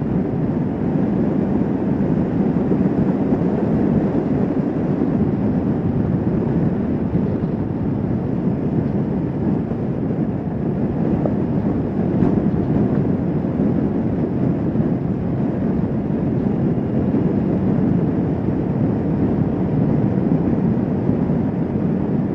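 Kawasaki Vulcan S 650 motorcycle cruising steadily on the open road: a constant engine drone mixed with wind and road rush.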